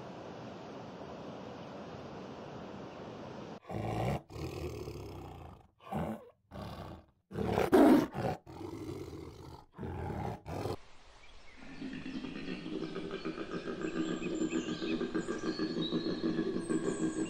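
Steady wind-and-surf noise, then a tiger roaring and snarling in a string of loud growls, the loudest a little before the middle. After that comes a male koala's bellow, a rhythmic snoring grunt that pulses rapidly and grows louder, with faint bird chirps near the end.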